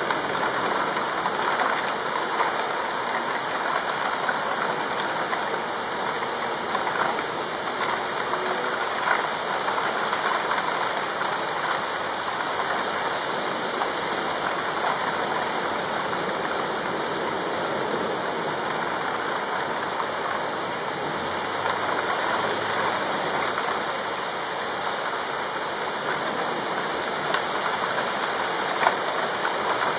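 Steady heavy rain pouring down, an even rushing hiss with a few sharper ticks of drops.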